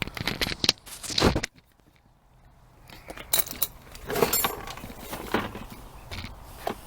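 Scattered clicks, knocks and rattles from handling the string trimmer, with no engine running; the sound drops to near silence for about a second and a half, a little over a second in.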